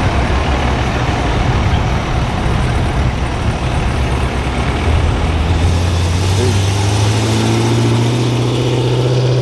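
A loud vehicle engine running at a low, steady pitch. About halfway through, its pitch starts climbing slowly and keeps rising to the end.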